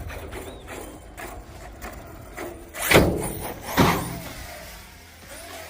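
Electric RC stunt trucks running on a skatepark, with two loud sudden bursts about three and four seconds in.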